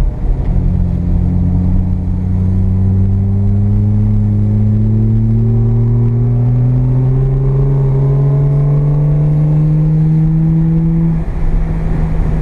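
Mazda FB RX-7's carbureted 12A two-rotor rotary engine, heard from inside the car, accelerating hard with its pitch climbing steadily for about eleven seconds, then dropping back as the throttle comes off near the end.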